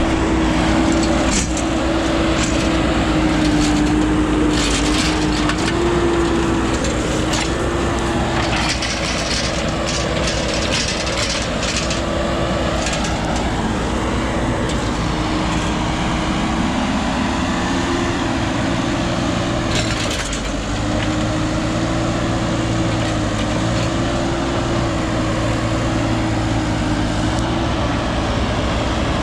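Heavy diesel machinery running steadily under load, with a wavering whine over the engine note, and scattered cracking and snapping noises, most of them in the first half.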